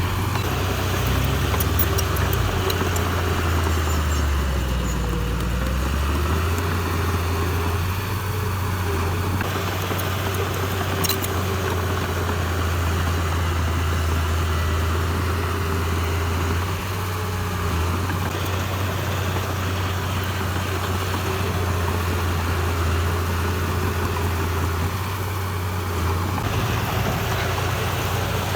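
Diesel engine of heavy earthmoving machinery running steadily with a strong low drone, its speed dipping briefly about five seconds in.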